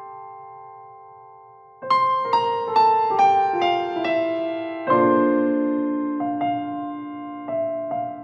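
Background solo piano music. A chord dies away, then about two seconds in a quick run of falling notes starts, settling into gently struck chords.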